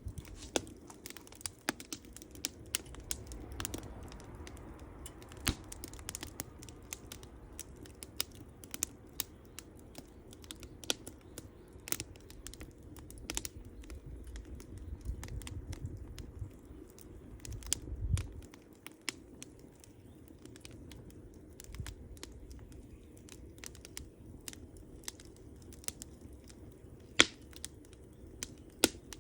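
Wood campfire crackling, with irregular sharp pops and snaps over a low rumble of the burning fire. One pop near the end stands out louder than the rest.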